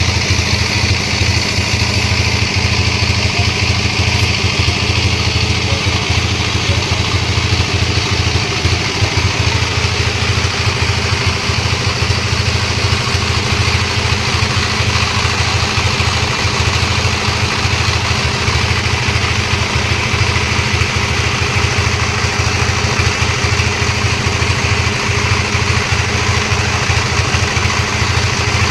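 Sawmill engine running steadily, its hum unchanging throughout.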